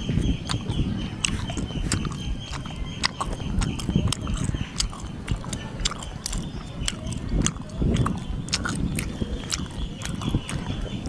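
Close-up chewing of roast pork, with frequent sharp crunches and clicks from the crisp skin between the wet mouth sounds.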